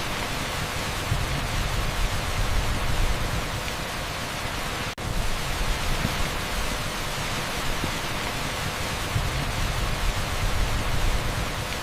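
Dense, steady hiss of heavy rain pouring onto asphalt, heard as an even pink-noise wash. The sound cuts out for an instant about five seconds in.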